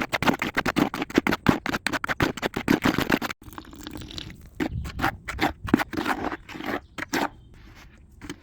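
Tile adhesive and powder dyes being mixed by hand, a tool scraping through the mix in quick, repeated strokes. About three and a half seconds in the strokes break off, then continue slower and more spaced.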